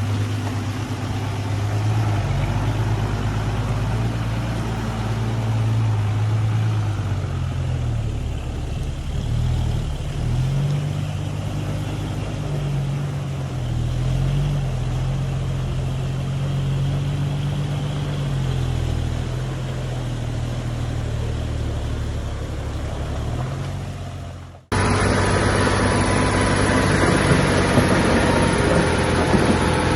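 Diesel engine of heavy earthmoving machinery running under load, its pitch rising and falling as it is worked. Near the end the sound cuts off abruptly and a louder engine picks up.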